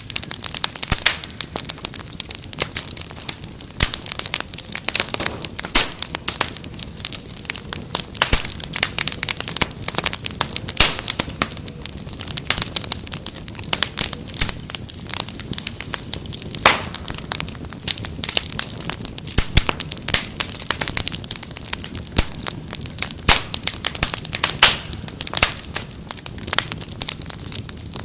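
Wood fire crackling, with frequent sharp pops at irregular intervals over a steady low rush of burning.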